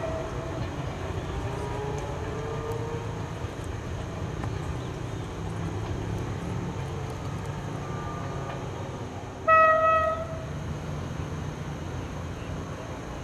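Alsthom diesel railcars running in multiple, with a steady low engine rumble as they approach, and one short horn blast a little under ten seconds in.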